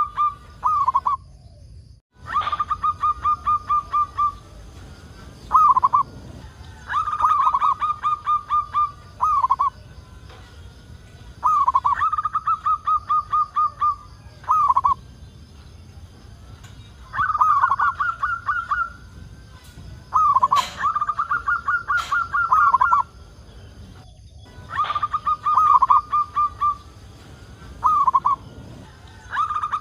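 Zebra dove (perkutut) singing: repeated cooing phrases, each a quick run of short notes on one pitch followed by a separate closing note, coming about every five seconds.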